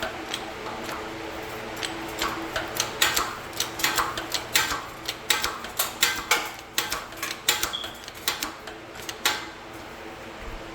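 Jack-operated shop press being worked to force a suspension bushing out, giving an irregular run of sharp clicks and ticks, about one or two a second, over a steady low hum.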